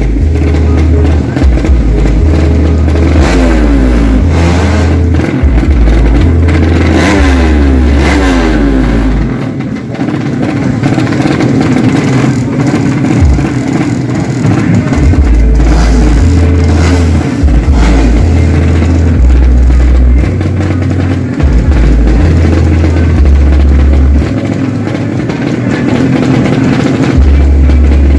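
Drag-racing motorcycle engines revving and accelerating hard, their pitch climbing in sweeps twice in the first ten seconds, with a steady music bass line thudding underneath.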